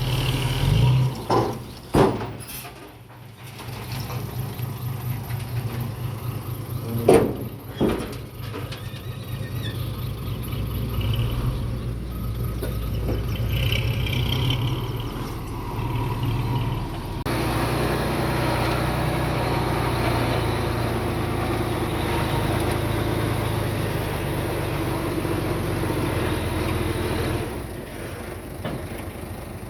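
Diesel engines of heavy earthmoving machinery running steadily, with a few loud clanks in the first eight seconds; the engine sound grows louder and busier about halfway through.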